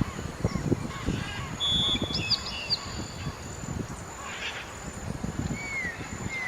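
Small birds chirping outdoors: a short whistle, a few quick hooked chirps and a falling whistle near the end. They sit over a constant low buffeting rumble.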